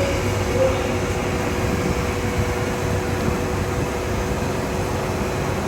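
Steady running noise of workshop machinery, an even din with a faint constant hum.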